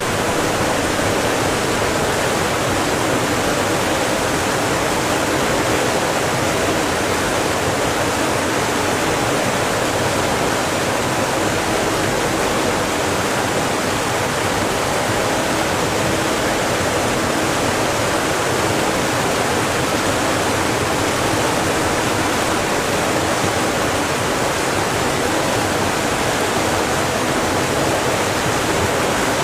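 A steady rushing noise, even and unchanging, that starts abruptly.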